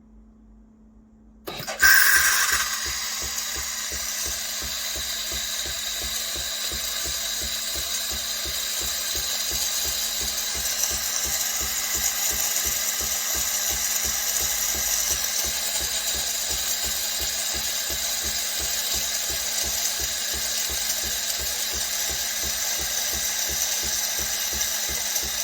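Philips 5400 Series bean-to-cup espresso machine running a cycle. It starts sharply about a second and a half in, runs steadily with a fast, even pulsing, and stops near the end.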